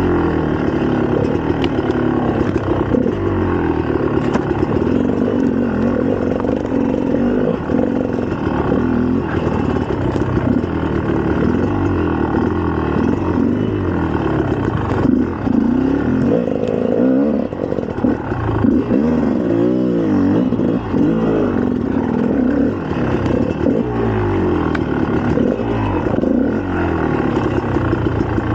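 2004 GasGas EC300's single-cylinder two-stroke engine running under way, its pitch rising and falling again and again with the throttle.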